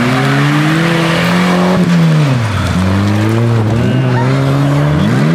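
An off-road 4x4's engine revving hard under load in mud. It holds high for about two seconds, drops off, then surges up and falls back twice more.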